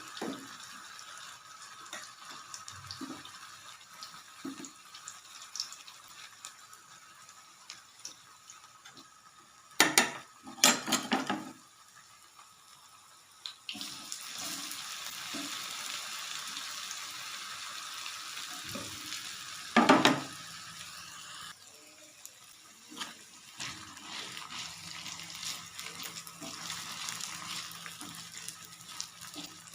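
Water running from a kitchen tap into a sink, switched on and off, with a few loud clatters of utensils or pots about a third of the way in and again near the middle.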